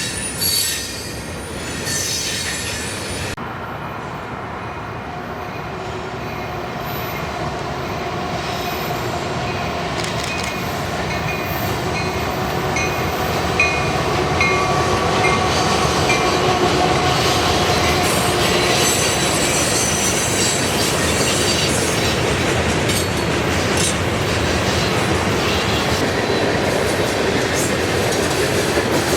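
Freight train rolling past on steel rails, its wheels squealing high-pitched now and then. The sound grows louder over the first half and then holds steady.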